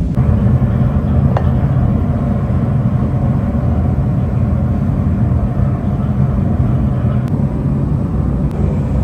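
Heavy factory machinery running with a loud, steady low rumble. A faint brief whine comes about a second and a half in, and two light ticks come near the end.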